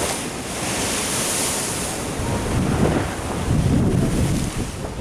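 Ocean surf washing in, a hiss that swells and fades over the first two seconds, with gusty wind buffeting the microphone from about halfway through.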